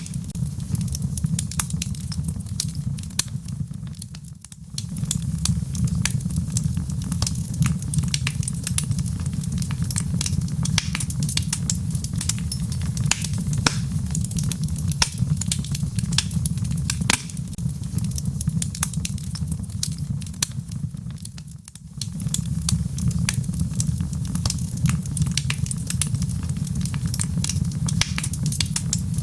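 Wood logs burning in a fireplace: dense crackling and popping over a steady low rumble of the flames. The sound dips briefly twice.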